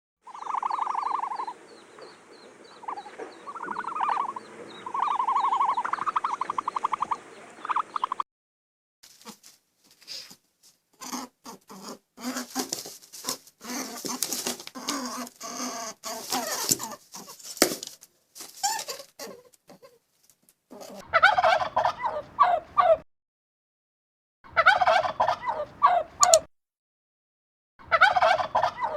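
Turkeys gobbling in three short bursts of rapid warbling calls near the end. Before that come other short animal clips: pitched calls in the first eight seconds, then a stretch of irregular clicks and noisy bursts.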